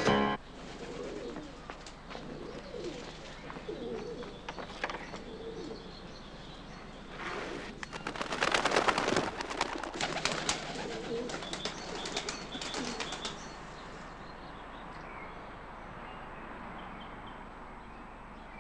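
Birds calling, with chirps and cooing, after music cuts off at the start. A louder stretch of rustling, clattering noise comes in the middle.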